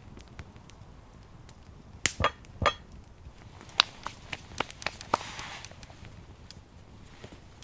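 Camp cooking gear being handled: three sharp knocks about two seconds in, then a run of lighter clicks and taps with a brief rustling hiss a little past the middle.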